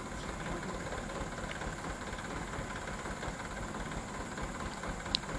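Dump truck engine idling steadily, with one short sharp click about five seconds in.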